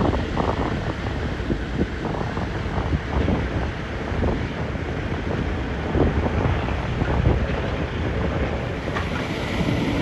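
Wind buffeting the microphone: a steady low rumble that rises and falls in irregular gusts.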